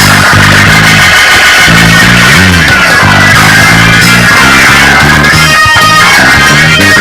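Loud, steady church praise music from a live band during a praise break in the service.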